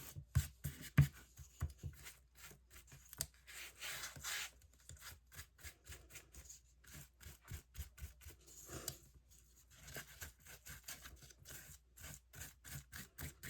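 Paintbrush scrubbing and dabbing across a canvas and collage paper: a quick run of short, scratchy strokes, several a second, with a couple of longer swishes.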